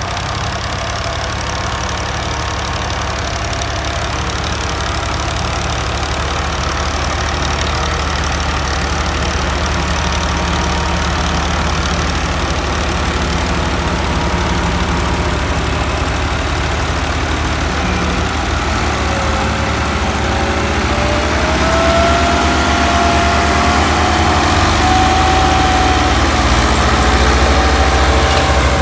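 Tractor engine running steadily, getting louder a little past twenty seconds in, with a whine that slowly rises in pitch near the end.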